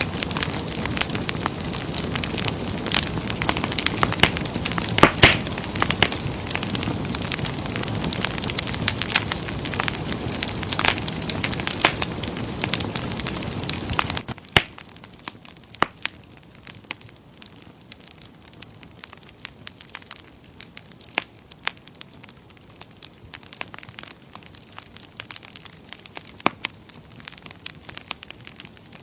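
Wood fire crackling in a fireplace: a steady hiss full of frequent sharp pops and snaps. About halfway through, it drops suddenly to a much quieter fire with only scattered crackles.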